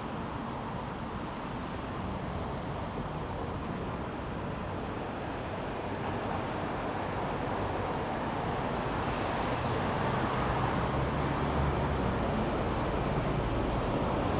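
Street traffic noise, a steady wash of passing vehicles that grows gradually louder and deeper through the second half.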